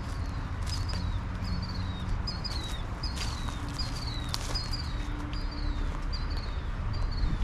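A bird calling over and over, a short falling chirp roughly every two-thirds of a second, over a steady low rumble with a few footsteps.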